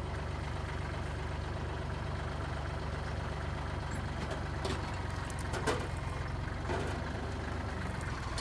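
Kubota L3830 diesel tractor engine running steadily, with a few short knocks in the middle, the loudest a little past halfway.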